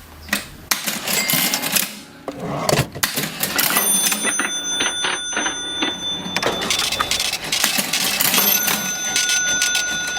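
Vintage mechanical cash register being worked: keys and mechanism clacking and rattling, sparse at first, then nearly continuous. A bell-like ringing tone sounds about four seconds in and again near the end.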